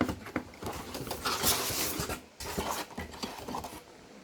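Rustling and light clicks from an item being handled and unpacked, with a longer, denser rustle around one and a half to two seconds in. It dies down near the end.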